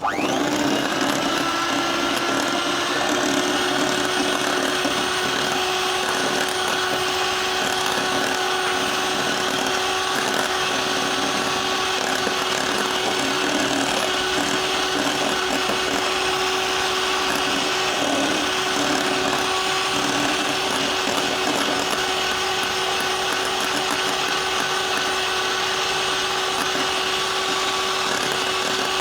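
Electric mixer switched on and running steadily, whipping cream toward soft peaks; its motor note rises briefly as it spins up, then holds one steady hum.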